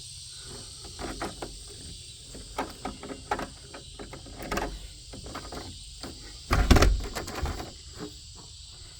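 A steady high insect chorus, crickets, runs under scattered light knocks and clicks, with one louder dull thump about seven seconds in.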